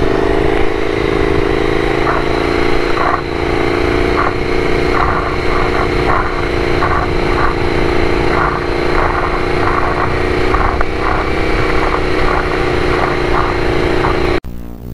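KTM 990 Super Duke's V-twin engine running at steady revs on the move, with wind rush on the helmet microphone. The engine sound drops away abruptly near the end.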